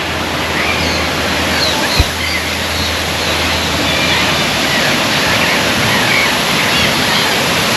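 Steady rush of a large waterfall, with faint short bird calls above it and a single brief knock about two seconds in.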